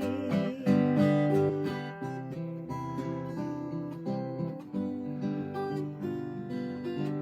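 Acoustic guitar playing an instrumental break between the sung verses of a folk song, with plucked melody notes over a steady bass. A held sung note dies away about half a second in.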